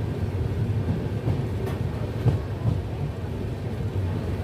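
Passenger train running along the line: a steady low rumble of the coach on the rails, with a few faint knocks.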